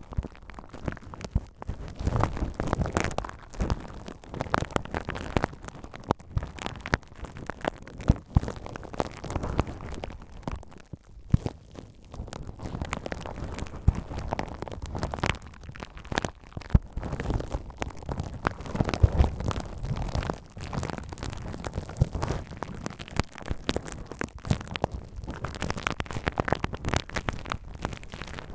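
Bubble wrap (air cap) being crinkled and handled close to the microphone: continuous rustling with many sharp, irregular crackles.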